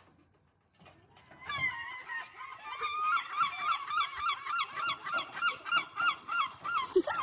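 A seagull giving its long call: a few drawn-out opening notes, then a long run of repeated yelping notes at about three a second.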